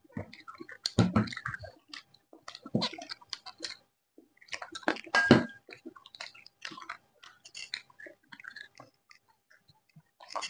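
Chewing and crunching of fried chicken pakodi, heard as irregular crackly crunches; the loudest come about a second in and near the middle.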